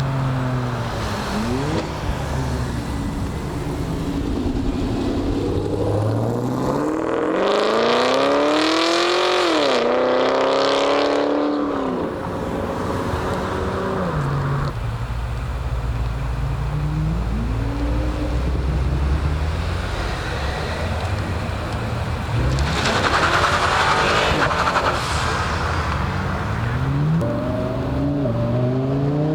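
Car engines revving and accelerating away one after another, their pitch climbing and dropping as they rev and shift. The loudest hard acceleration comes about seven to eleven seconds in.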